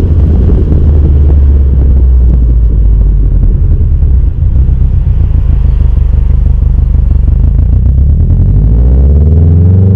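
Exhaust note of a Subaru WRX STI's turbocharged EJ25 flat-four through a 3-inch turbo-back performance exhaust with a resonated centre section, running steadily, then revving up in the last second or so.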